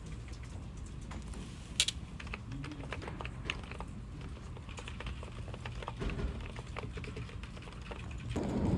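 Typing on a computer keyboard: a run of irregular key clicks, with one sharper click about two seconds in.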